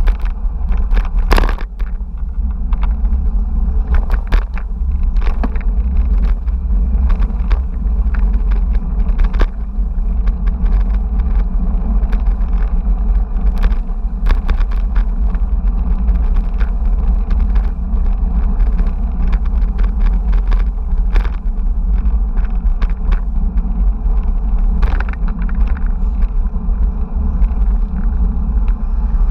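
Steady low rumble of wind and road noise on a bike-mounted action camera while riding, with frequent small rattles and knocks from the bicycle.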